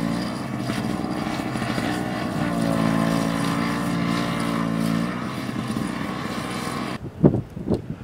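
An engine running with a steady drone that fades briefly about a second in and comes back. The sound cuts off suddenly about seven seconds in, followed by a few short low thumps.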